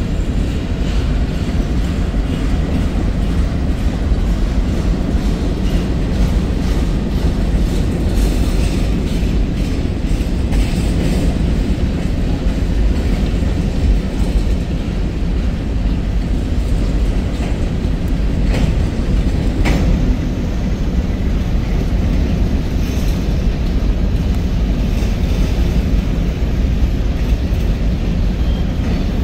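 Freight cars of a long mixed manifest train (covered hoppers, tank cars and boxcars) rolling past at close range, making a steady low rumble. A couple of sharp metallic clanks come about two-thirds of the way in.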